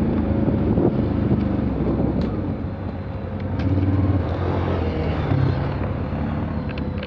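Off-road vehicle engine running under load while driving through mud, its revs rising and falling, with a few light clicks.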